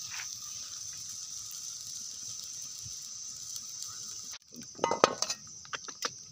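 Chicken frying in a wok over a wood fire, a steady sizzle. About four seconds in the sound breaks off briefly, then a few sharp clicks of the spatula against the wok follow.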